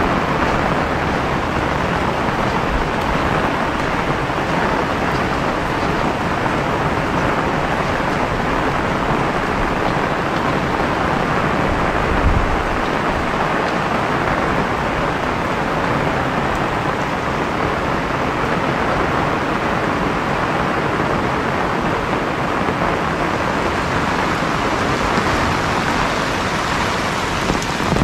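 Heavy rain falling steadily in a dense, even hiss, with a brief low thump about twelve seconds in.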